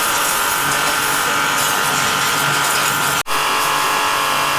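Pressure washer running steadily, a motor whine under the hiss of the water jet. It breaks off for an instant a little past three seconds and carries on.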